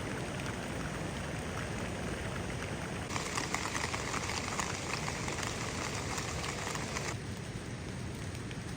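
Steady rain falling, a dense patter of drops; from about three seconds in to about seven seconds in the patter turns crisper and busier with many small drop ticks.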